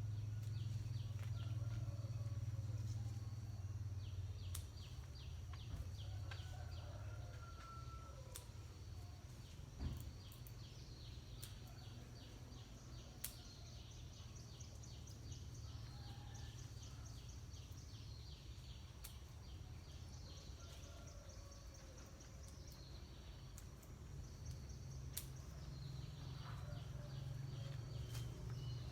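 Repeated high chirping calls over a low, steady rumble, with a few sharp clicks.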